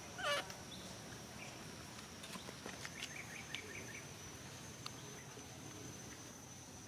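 Outdoor natural ambience with a steady high insect drone. A short animal call falls in pitch about a quarter second in, and a quick run of short high chirps comes around the middle.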